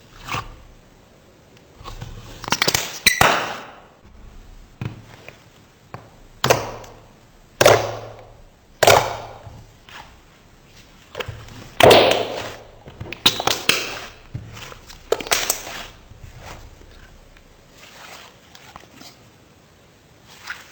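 Slime being pressed and poked: a series of separate sticky, crackling bursts, about one every second or two, fainter over the last few seconds.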